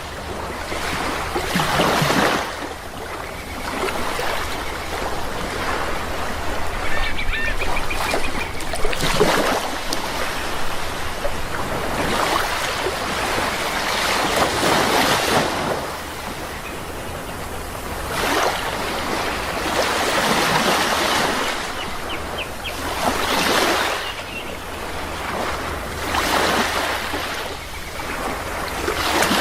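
Sea waves washing ashore in repeated surges, one swell every few seconds, with faint bird calls now and then.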